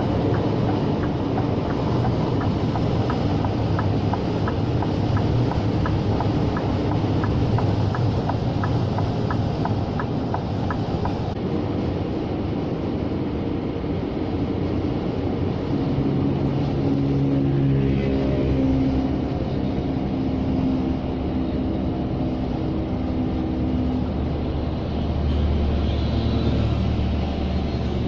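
Scania G460 lorry's diesel engine running under way, with road noise, heard inside the cab. A regular ticking at about one and a half a second runs through the first ten seconds or so.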